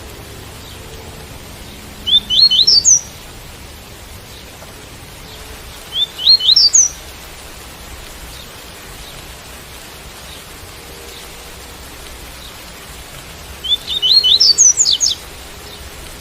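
Double-collared seedeater (coleiro) singing its tui-tui song: three short phrases of quick rising whistled notes, the last a little longer, over a steady hiss of rain.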